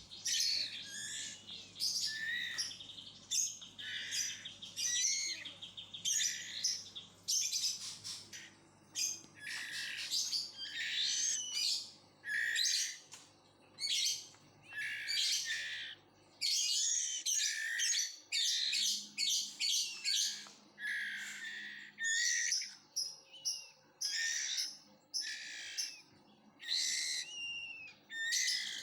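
Two-week-old white-rumped shama chicks chirping in short, high, repeated bursts with brief pauses between them.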